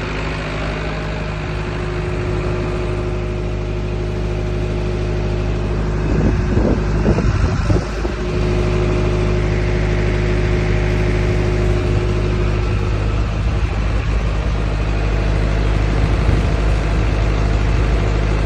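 Powertrac 4455 BT tractor's diesel engine running steadily, with a short uneven patch about a third of the way through, after which it runs slightly louder.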